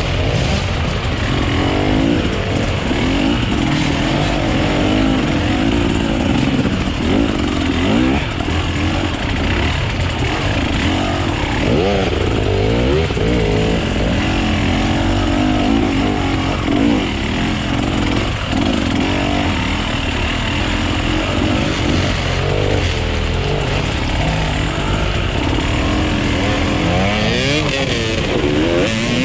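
Off-road enduro motorcycle engine running under riding load, its pitch rising and falling again and again as the throttle is opened and closed.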